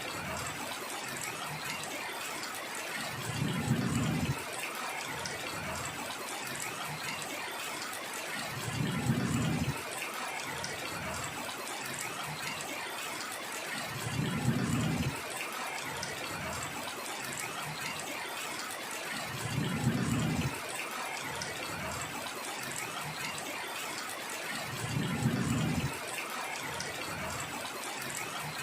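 Heavy rain falling steadily. About every five and a half seconds a low rumble swells for roughly a second and fades, five times in all.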